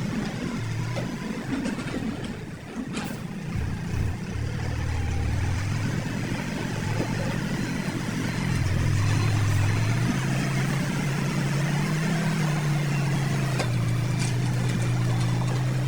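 Diesel engine of heavy earthmoving machinery running, revving up and getting louder about eight seconds in. A single sharp click comes about three seconds in.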